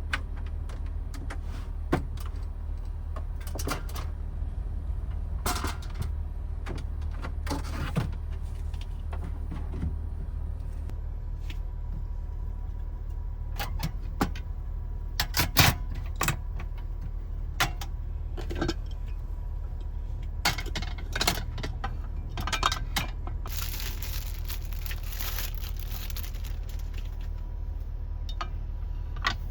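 Small objects being handled: scattered clicks, clinks and knocks over a steady low rumble, with a hiss lasting a few seconds near the end.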